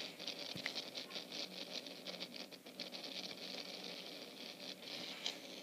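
Wind-driven rain pattering on a surface: a dense, irregular crackle of light ticks.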